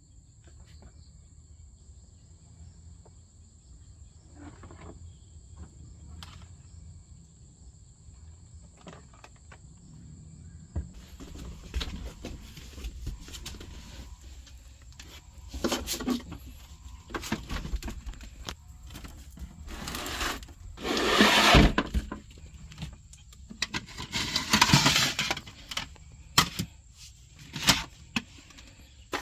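A faint, steady high-pitched insect drone over a low rumble of outdoor ambience. After about eleven seconds come irregular knocks, clatters and bursts of rustling, with the loudest rustles about two-thirds of the way in and again near the end.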